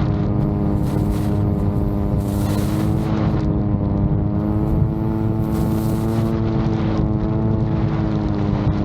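VTOL drone's propellers running with a steady hum that wavers slightly in pitch, over rough low rumbling from strong wind on the microphone.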